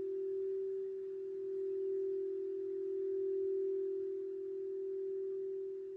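Singing bowl sounding one steady, pure, sustained tone that gently swells and eases in loudness.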